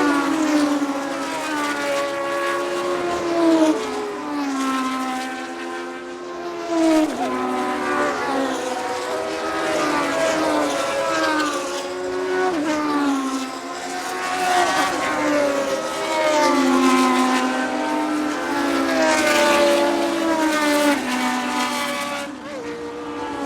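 Classic Formula 1 cars racing past one after another, their high-revving engines dropping in pitch as each car goes by.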